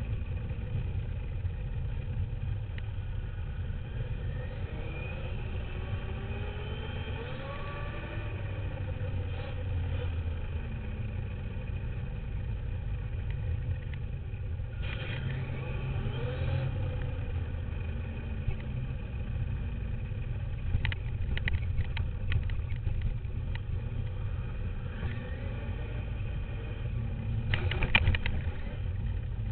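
Onboard sound of a radio-controlled dirt bike riding: a steady low rumble under a motor whine that rises and falls with the throttle, and clusters of rattling knocks about twenty seconds in and again near the end.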